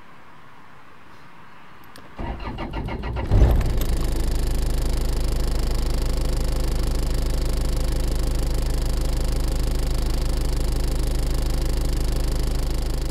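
Car engine being started: the starter cranks in regular pulses for about a second, the engine catches with a short loud burst, then settles into a steady idle.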